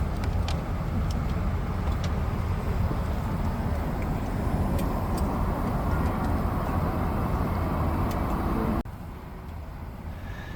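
Steady low rumble of machinery with a hiss over it, dropping suddenly about nine seconds in to a quieter, even hum.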